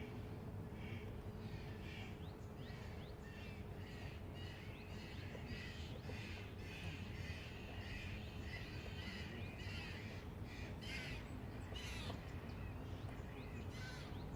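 A corvid calling in a long run of short, scratchy notes, a few each second, over the steady low rumble and hum of a city.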